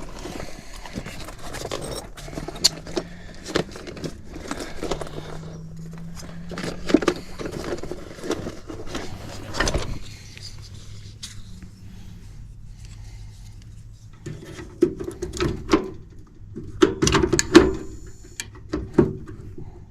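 Hands working on a gas furnace's parts and wiring: scattered clicks, taps and rustling, over a faint low steady hum.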